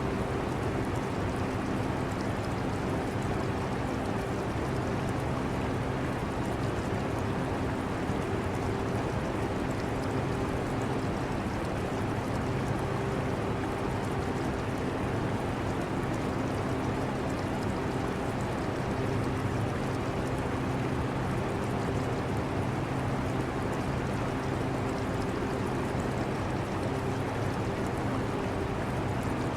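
Steady air-conditioner hum with a few constant low tones, mixed with running water from an aquarium, unchanging throughout.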